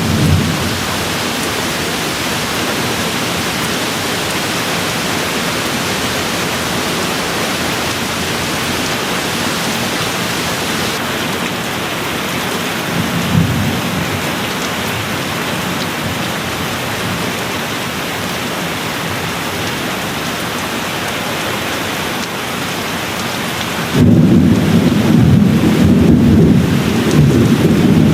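Steady rain falling, with a short low rumble of thunder about halfway through and a louder rolling thunder rumble that begins near the end.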